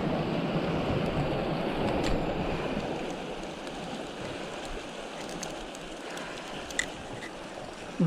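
Sea water washing and surging against the rocks, fuller for the first few seconds and then easing, with a few small clicks near the end.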